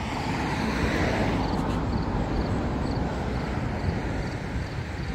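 A passing road vehicle: a steady noise of engine and tyres that swells about a second in, then slowly fades.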